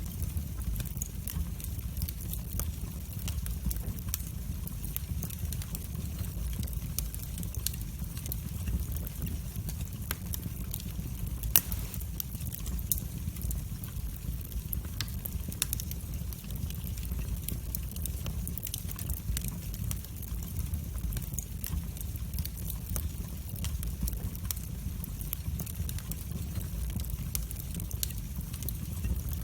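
Wood fire burning in a fireplace, a steady low rumble of flames with frequent small crackles and pops, the loudest pop about eleven seconds in.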